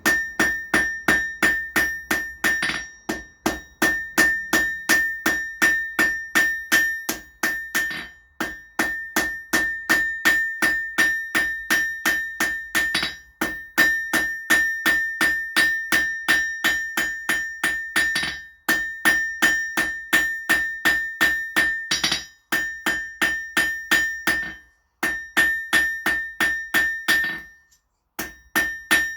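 Hand hammer striking hot 6 mm mild steel round bar on an anvil, tapering the end to a point: rapid blows, about three a second, each with a high metallic ring from the anvil, in runs broken by a few short pauses.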